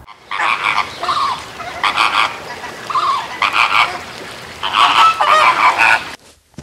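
A flock of flamingos honking, many calls overlapping with one another without a break, cutting off suddenly near the end.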